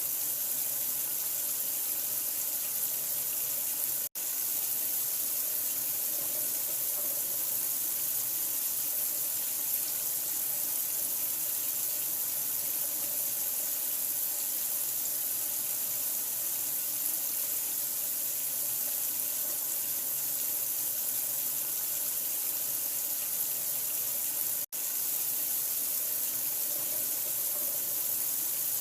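Steady rush of running water, an even hiss, used as a sleep sound for a newborn. It cuts out for an instant twice, about four seconds in and again near the end.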